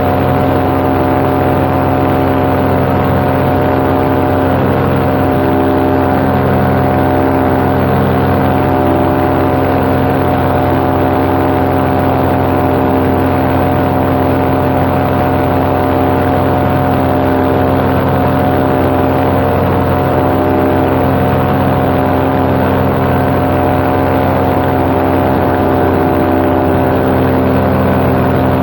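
Paramotor engine and propeller running steadily at cruise power: one constant, even drone with no change in pitch.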